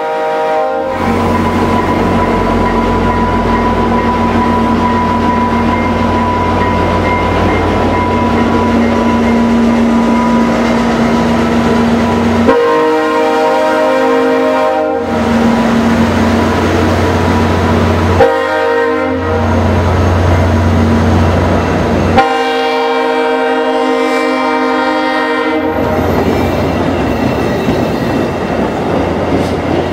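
VIA Rail F40PH-2 diesel locomotive pulling a passenger train out past the platform, its engine running hard under a steady whine. Its horn sounds four times: one blast ending about a second in, a long blast about 12 seconds in, a short one near 18 seconds and a long one about 22 seconds in. Near the end the passenger cars roll by with their wheels clicking over the rail joints.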